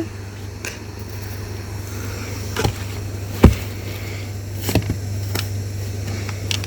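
Shovel digging in sand and stone, giving about six short knocks and scrapes at uneven intervals, the loudest about three and a half seconds in, over a steady low hum.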